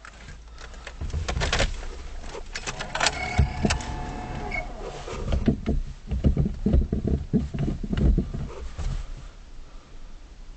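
Starter motor cranking the 1987 Ford Fiesta Mk2's 1.6 diesel engine on a cold start, after a few sharp clicks. A short whine, then uneven low pulses for about four seconds that die away near the end.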